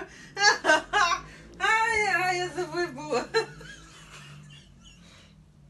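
High-pitched wordless laughter in short bursts, then a longer wavering, wail-like vocal sound that fades out about halfway through.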